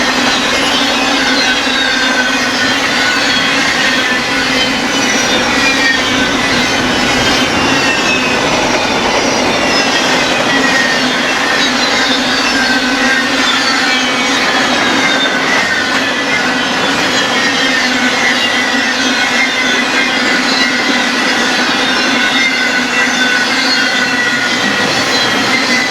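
Freight train cars rolling past at close range. Their wheels give off repeated high squeals that slide down in pitch as each passes, over a steady rumble.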